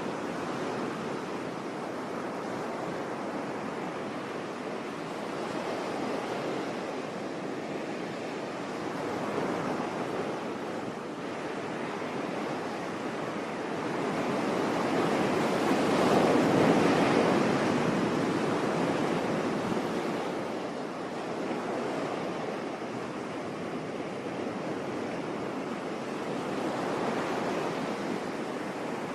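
Sea waves washing onto a beach: a steady rush of surf that swells to its loudest about halfway through and then eases off again.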